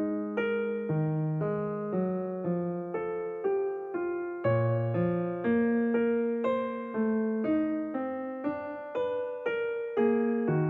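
Background music: a slow, gentle electric piano tune, its notes struck about twice a second over a changing bass line.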